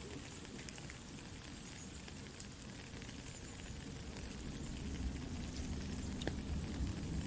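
Soft, steady rain mixed with a crackling campfire, with scattered sharp crackles. A low rumble grows louder about five seconds in.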